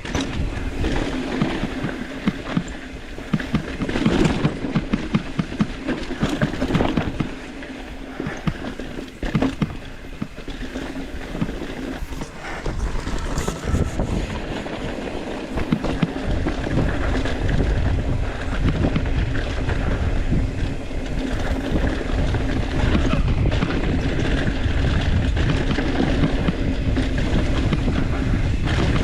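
Wind buffeting the microphone as a mountain bike rolls fast down a rough dirt trail, with tyre noise and irregular rattles and knocks from the bike over bumps, and a steady low hum underneath.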